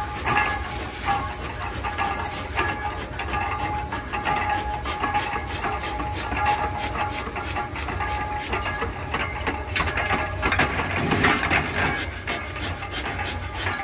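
Forging machinery running, with frequent irregular metallic knocks and clanks over a steady mechanical din.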